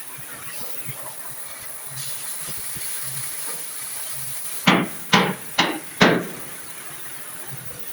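Four hammer blows on steel bodywork, a little under half a second apart, each ringing briefly, over a steady hiss.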